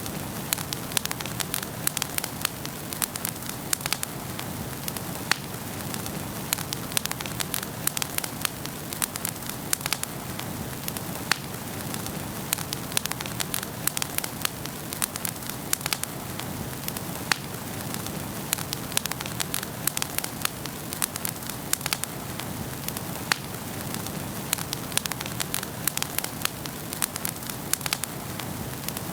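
Wood fire burning in a fireplace, with steady low hiss and rush of the flames and frequent irregular sharp crackles and pops from the burning logs.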